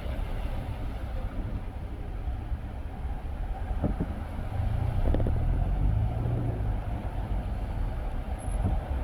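A car driving on the road: steady low rumble of tyres and engine, with a couple of short knocks about four and five seconds in.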